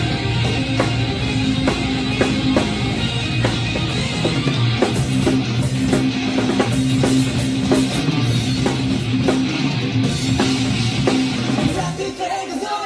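Drum kit played along to a hard-rock track with a driving electric guitar and bass riff and sharp, regular drum hits. The low riff drops out briefly near the end.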